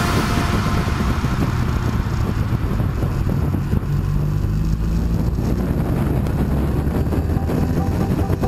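BMW R 1200 GS LC's boxer-twin engine running steadily while the motorcycle rides along, with wind rushing over the microphone.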